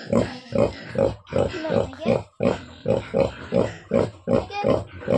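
Pigs grunting in a quick, even rhythm, about three short grunts a second.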